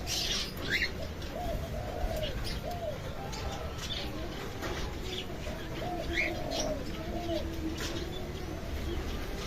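Doves cooing in a run of short rounded notes, with a lower drawn-out coo in the middle, while small birds give short high chirps.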